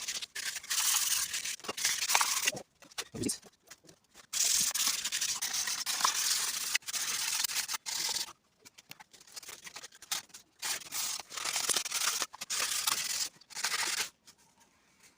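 Sanding the lip of a plastic radiator tank by hand: a series of scratchy strokes, each a second or two long, with short pauses between. The dirt is being sanded off the lip so the tank will seal properly.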